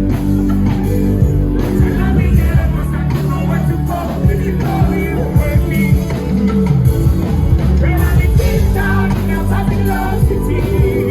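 Loud live concert music with strong bass and singing, played over the venue's sound system.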